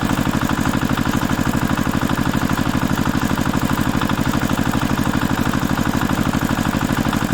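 Snow plow truck's engine idling steadily, a rapid, even chugging beat that cuts off suddenly near the end.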